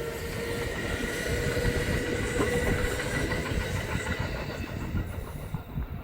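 Kintetsu electric train passing, its wheels clacking over the rail joints, with a steady whine over the rumble. The sound fades away near the end.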